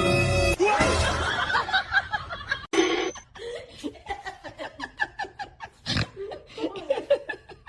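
A person laughing in short, repeated bursts, after a brief held musical tone at the start and an abrupt cut a little under three seconds in.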